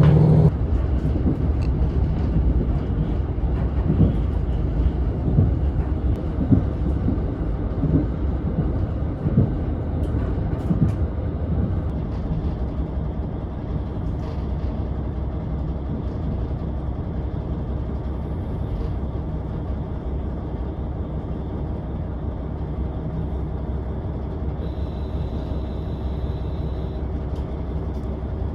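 Diesel railcar on the move: a steady engine drone with the rumble of the wheels on the rails, several irregular knocks in the first ten seconds, and a brief high tone a few seconds before the end.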